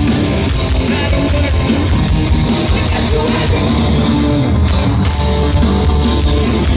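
Live heavy rock band playing loud: distorted electric guitars, bass and drums with steady cymbal hits, heard through a handheld recording in the crowd.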